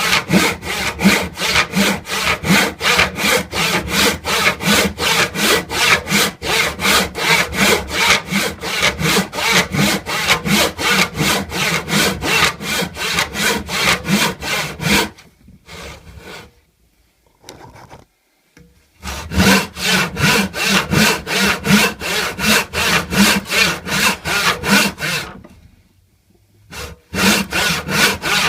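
Hand saw cutting wood in quick, even back-and-forth strokes, about three a second. The sawing stops twice for a few seconds, once about halfway and once near the end, then starts again.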